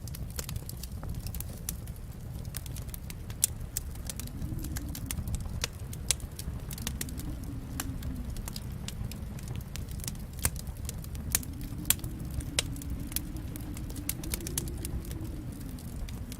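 Wood fire in a fireplace crackling: sharp, irregular pops and snaps over a steady low rumble of burning.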